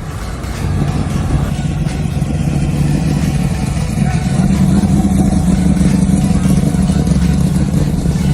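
Car engine running with a steady low note, getting louder about a second in and rising a little in pitch about four seconds in.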